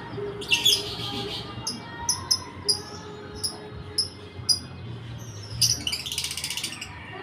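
Several lovebirds in a colony cage calling: a string of short, sharp high chirps, with two longer, rapid chattering bursts, one near the start and one about a second before the end.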